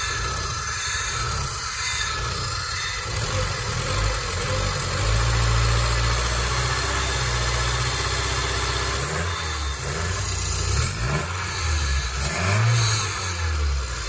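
Peugeot 406 petrol engine running in an open engine bay while being warmed up after repair, now running smooth. Its note rises and falls a few times over the last few seconds.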